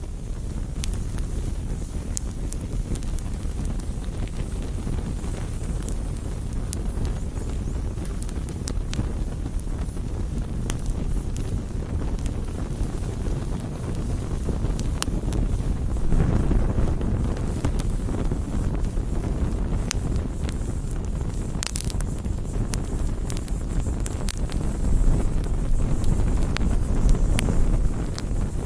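Campfire burning: scattered sharp crackles and pops of burning wood over a steady low rushing noise, which swells about sixteen seconds in.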